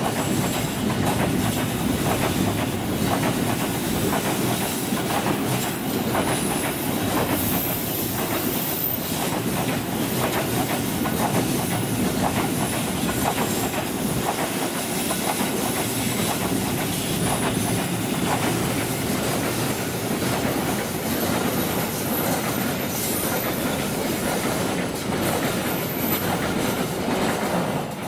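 Container freight train wagons rolling past on the track, with a steady rumble and the clickety-clack of wheels over rail joints. Thin, high wheel squeals come and go.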